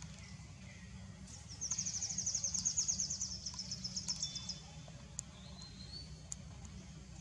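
A wild bird's high-pitched, rapid trill of short notes, about seven a second for roughly three seconds, followed by a brief rising whistle, over a steady low rumble.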